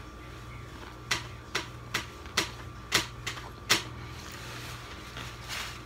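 A person chewing food close to the microphone: about seven sharp crunching clicks roughly half a second apart, over a steady low hum.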